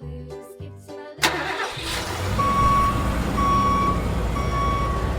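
A children's jingle cuts off about a second in with a sudden hit. A truck engine sound effect then starts and runs with a steady rumble. Before the halfway point a reversing alarm starts beeping about once a second.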